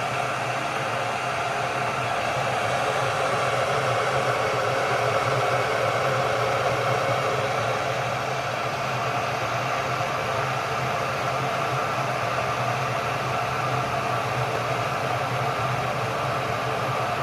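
Ikich CP188A electric kettle heating a small amount of cold water, giving a steady rushing hiss as the water comes up towards the boil.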